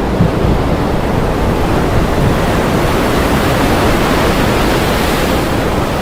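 Heavy rain pouring steadily, with a deep rumble underneath; the hiss grows a little brighter about five seconds in.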